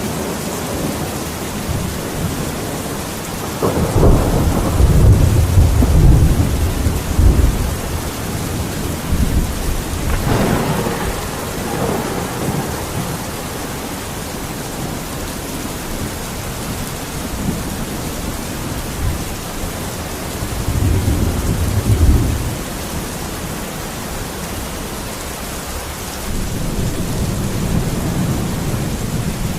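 Steady rain falling, with thunder rumbling over it several times. The loudest roll comes about four seconds in and lasts a few seconds, weaker rumbles follow around ten and twenty-one seconds in, and another begins near the end.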